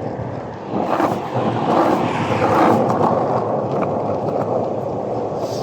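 Skateboard wheels rolling over rough road surface: a steady rumble that gets louder about a second in.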